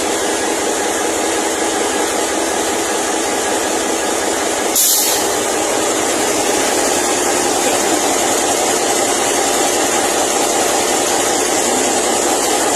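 Diesel locomotive engine running steadily at idle, with a short burst of air hiss about five seconds in.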